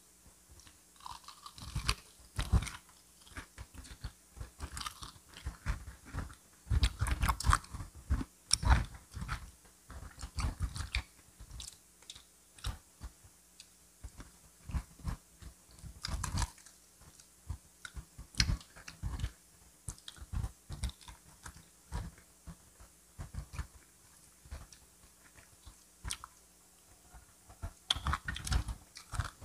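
Crunchy biting and chewing of crispy fried chicken: irregular clusters of crackling crunches with short pauses between them.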